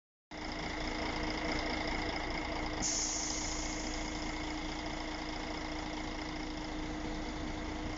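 Vehicle engine running steadily: a constant hum over a low rumble, with a higher hiss that comes in about three seconds in.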